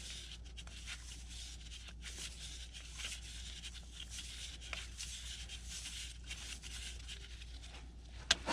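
Teflon tape being wrapped around the threads of a male pipe adapter: soft, uneven rubbing and crinkling with small clicks, over a steady low hum.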